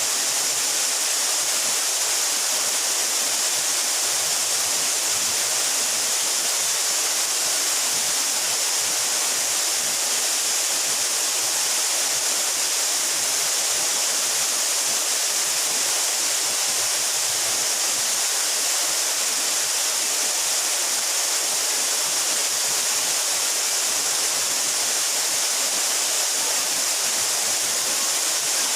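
A 12-metre mountain waterfall: water falling and splashing in a steady, unbroken, hissy rush.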